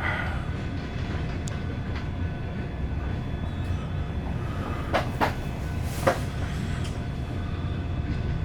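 Wisconsin and Southern freight train's cars rolling past a street crossing with a steady low rumble, with a few sharp metallic clanks about five to six seconds in.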